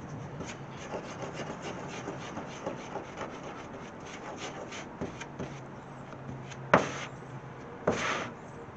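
Plastic spreader scraping across a sheet-metal hood as it mixes body filler with hardener: many short, irregular strokes, with two louder scrapes near the end.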